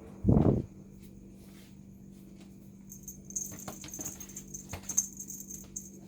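A dull, loud thump just after the start, then light jingling and rattling with scattered clicks from about halfway through.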